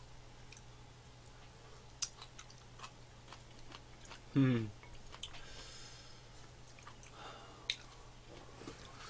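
Close-up chewing and mouth sounds of people eating instant cup rice, with scattered light clicks of chopsticks and spoons against the bowls. About halfway through, a short voiced hum with a falling pitch.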